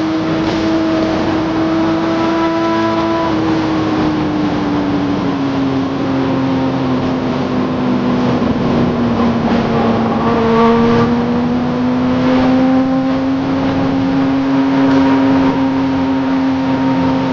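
Kawasaki ZX-10R superbike's inline-four engine running at steady high revs on the move, its pitch easing down a little about five seconds in and then holding level, over a steady rush of noise.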